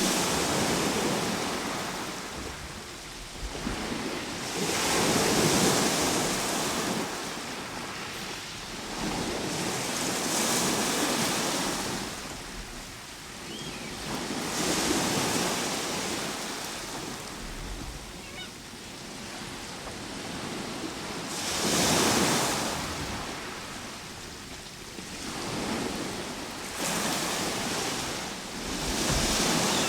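Ocean surf, the waves washing in and drawing back in slow swells, about six in this stretch, roughly every five seconds.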